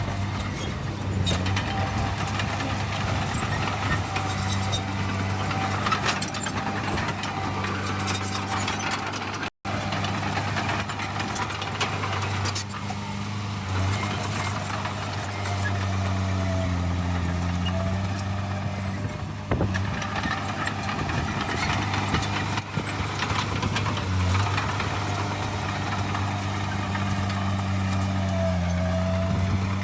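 Heavy diesel engine of earthmoving machinery running steadily, its pitch dipping and rising slightly now and then. The sound cuts out for a moment about ten seconds in.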